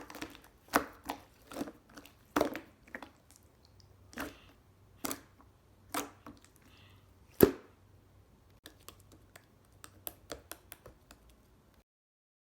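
Gold pearl slime being squeezed and stretched by hand, giving irregular sticky pops and clicks about once a second. The loudest pop comes about seven and a half seconds in, followed by a run of smaller, quicker clicks that cuts off suddenly near the end.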